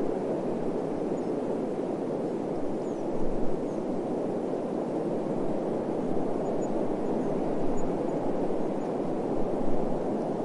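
Steady rushing desert wind, rising briefly in a couple of gusts.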